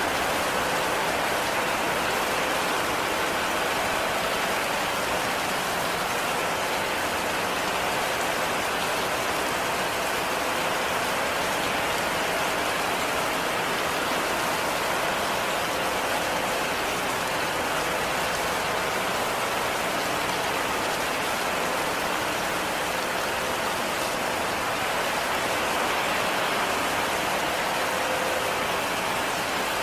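Heavy rain falling steadily, an even hiss with no single drops or gusts standing out.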